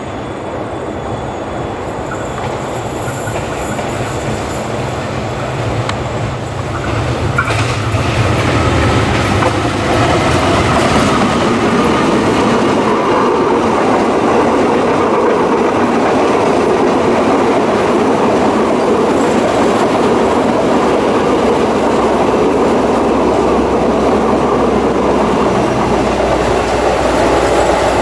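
A diesel locomotive approaches and passes, its engine hum growing louder over the first ten seconds. Then comes the steady rumble and clatter of a long string of passenger coaches rolling by on the rails.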